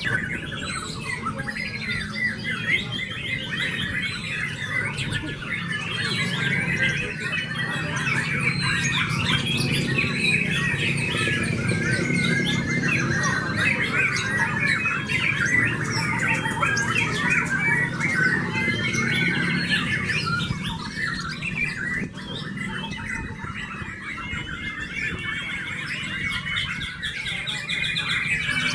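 White-rumped shama song: a dense, continuous stream of rapid, varied chirps and whistles, with a steady low background hum beneath.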